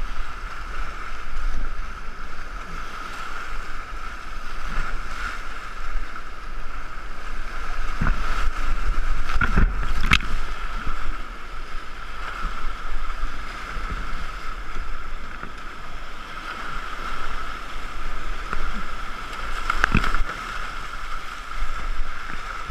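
Rushing, splashing water and paddle strokes around a racing canoe running down the river, heard from a camera mounted on the boat. Sharp knocks come about eight to ten seconds in, and again near twenty seconds.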